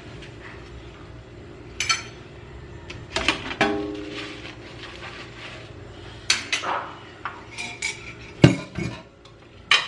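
Dishes and cutlery clinking and clattering as they are handled, in scattered sharp clinks, some ringing briefly.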